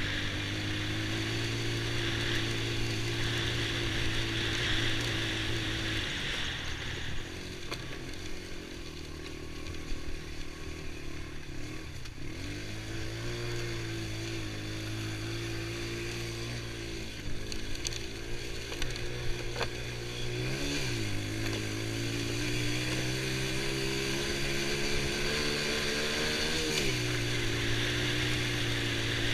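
Honda TRX90 ATV's small single-cylinder four-stroke engine running while riding, holding a steady pitch for stretches, then dropping off and picking back up several times as the throttle eases and opens.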